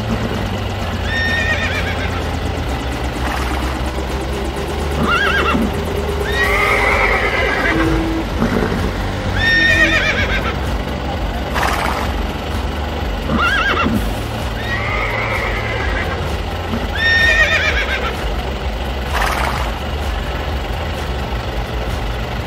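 Horses whinnying over and over, about ten calls with one every two seconds or so, over background music.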